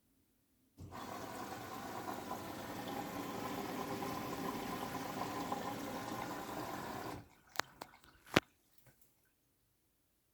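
Siemens WM14VG93 washing machine taking in water: the inlet valve opens and water rushes in with a steady hiss, then cuts off suddenly after about six seconds. Three sharp clicks from the machine follow.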